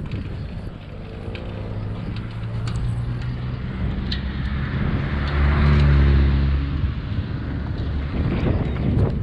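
A motor vehicle's engine approaching and passing close by, loudest about six seconds in, then fading away.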